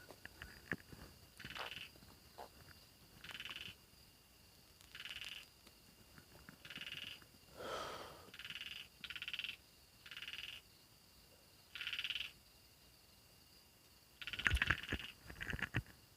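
Frogs calling at night: short buzzy calls repeated every second or two over a faint steady insect trill. A few sharp knocks and rustles come close by near the end and are the loudest sounds.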